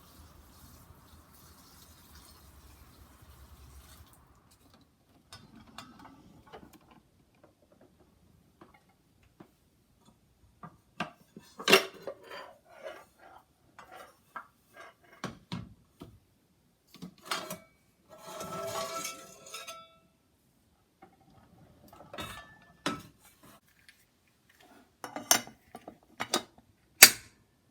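Kitchenware being handled: scattered clinks and knocks of pots, utensils and dishes, with two louder knocks, one about halfway through and one near the end, and a brief rustling stretch between them.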